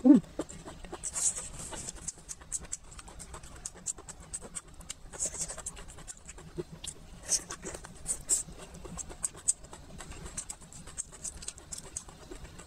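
Close-miked eating: a thin pancake roll with chicken filling being bitten and chewed, with wet chewing, lip smacks and crisp little crackles at irregular intervals, and one louder short mouth sound right at the start.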